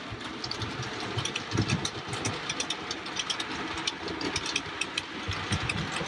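Model train running on track: a steady mechanical hum with many small irregular clicks and rattles.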